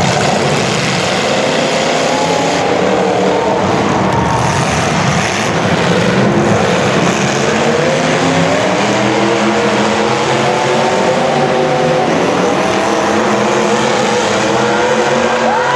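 Several racing engines running at once on track, their pitches rising and falling as they accelerate and ease off.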